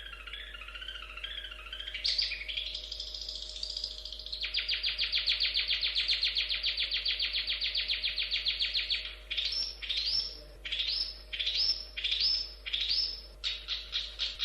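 Long-tailed shrike (cendet) singing: a warbling phrase, then a long, rapid, even trill lasting several seconds, then a string of separate falling notes about one every half second, and near the end the rapid trill starts again.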